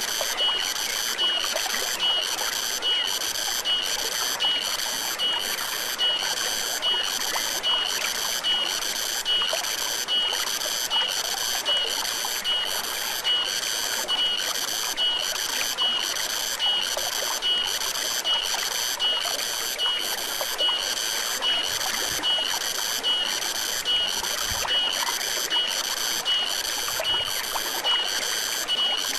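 A high-pitched insect call pulsing evenly, about two chirps a second, over the steady rush of a stream.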